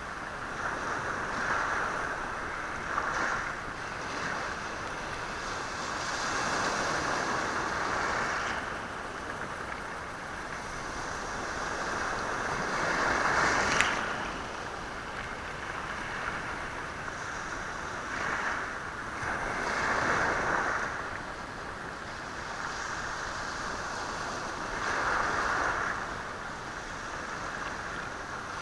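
Sea waves breaking on a rocky shore and washing over stones, surging in and falling back every few seconds. The loudest wave crashes sharply about halfway through.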